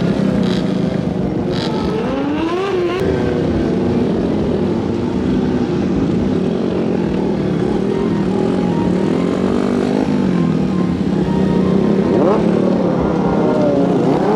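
Stunt motorcycle engines running and being revved up and down, their pitch rising and falling repeatedly, with a sharp rev about two to three seconds in and more revving near the end.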